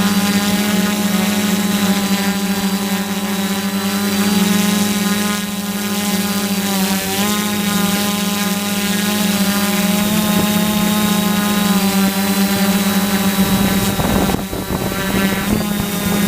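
DJI F450 quadcopter's motors and propellers in flight: a loud, steady multirotor whine whose pitch dips briefly about halfway through. Near the end the whine fades under a rushing noise like wind on the microphone.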